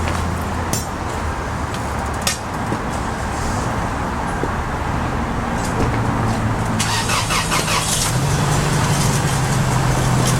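A large engine running steadily, its pitch stepping up about eight seconds in, with a quick burst of rapid clattering just before.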